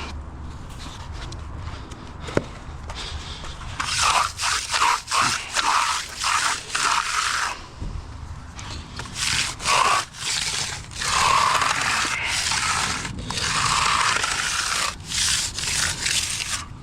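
Hand trowel scraping and rubbing across a fresh concrete slab in repeated strokes, starting about four seconds in: the slab being hand-finished.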